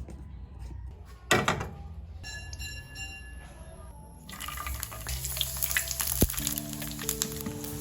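Background music, with a brief loud rush about a second in; then, about four seconds in, a steady crackling sizzle of food frying in hot oil starts and keeps going.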